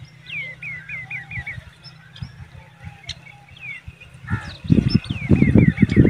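Small bird chirping: a run of about six quick falling chirps near the start, scattered calls after it, and another quick run near the end. From about four seconds in, loud irregular low rumbling comes in and is the loudest sound.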